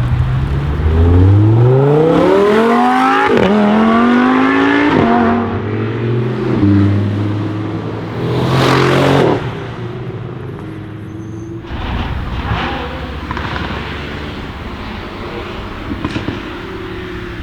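Lamborghini Huracán's 5.2-litre V10 accelerating hard, the engine note climbing and falling back twice at upshifts. A few seconds later comes a short loud burst of revving, then quieter engine running with a few sharp pops near the end.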